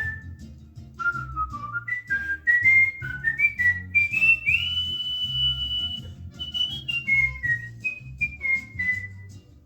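Cockatiel whistling a tune: a run of short clear notes stepping upward, one long held high note in the middle, then notes stepping down again.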